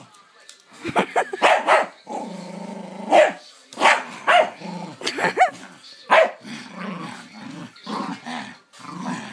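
Excited dog barking in short sharp bursts, with a drawn-out growl about two seconds in, as it goes crazy at a key.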